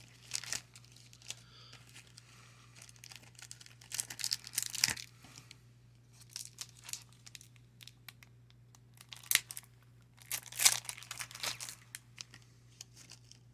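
Baseball card packs and cards being handled: irregular bursts of crinkling and rustling with small clicks, loudest about four seconds in and again about ten seconds in.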